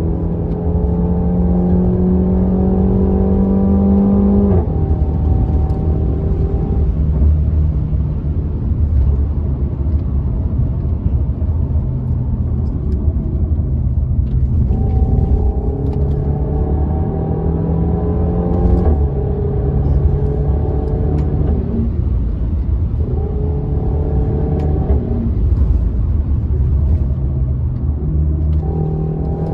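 Renault Mégane RS 1.8-litre turbocharged four-cylinder engine under acceleration over a steady low rumble. The engine note climbs in pitch, then drops sharply at each gear change: first about four seconds in, then again further on.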